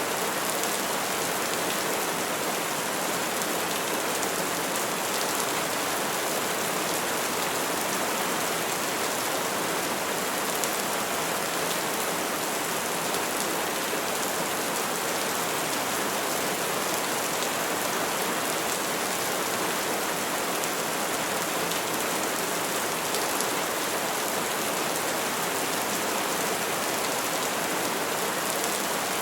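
Rain falling steadily: an even, unbroken hiss of many drops, with no thunder.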